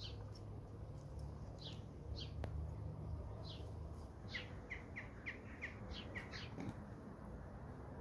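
A small songbird chirping: scattered short, high, falling notes, then a quick run of about seven falling notes near the middle.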